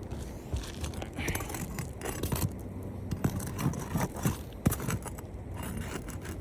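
A roof snake (shingle-removal bar) scraping and knocking as it is worked under asphalt shingles to lift them and pry out the nails. The knocks and scrapes come in an irregular run.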